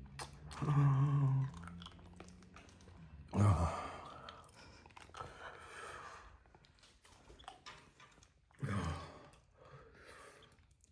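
A person eating very spicy noodles: chewing with mouth noises, a low hummed groan near the start, and two sharp, pained exhales falling in pitch, at about three and a half seconds and near nine seconds, as the chilli heat burns.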